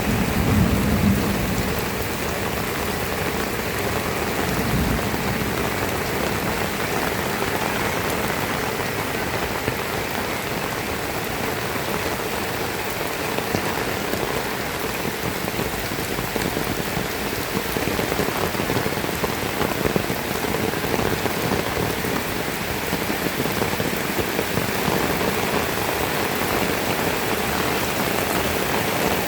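Heavy rain falling steadily, with the low rumble of thunder dying away in the first couple of seconds.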